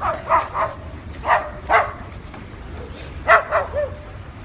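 Dog barking in short, sharp bursts: three quick barks at the start, two more about a second and a half in, and another three or four about three seconds in.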